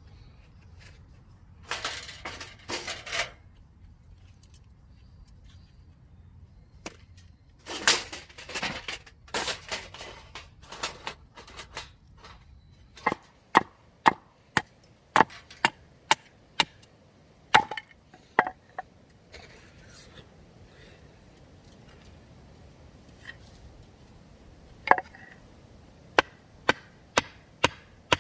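Firewood being split by batoning, a knife driven through a log with a wooden baton. There are a few rough splintering bursts first. About halfway a run of sharp wooden knocks begins, quickening to about two a second near the end.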